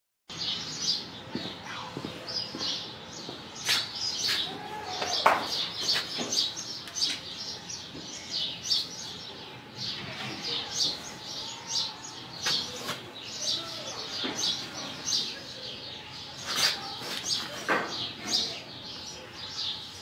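Small birds chirping continually, many short high chirps several a second, with a few sharp knocks now and then.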